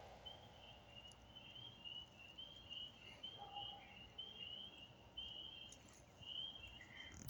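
Faint high chirps or whistles from a night animal, repeated about twice a second in a steady run, with a faint short lower call about halfway through.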